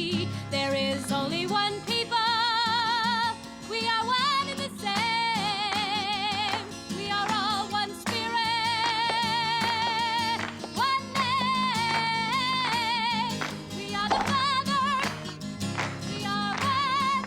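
A woman singing a gentle folk song to acoustic guitar, holding long notes with a wide, wavering vibrato between short breaths.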